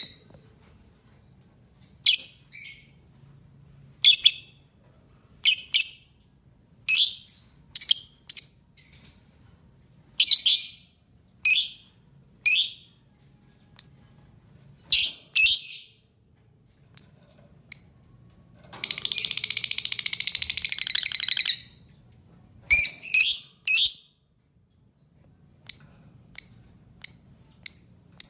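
Lovebird calling: short, sharp, high-pitched chirps about once a second, with a fast chattering trill lasting a few seconds past the middle. A faint, steady, very high tone runs underneath.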